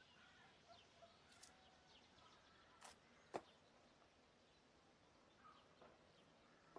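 Near silence: faint outdoor ambience with scattered small bird chirps, and a short sharp sound a little over three seconds in.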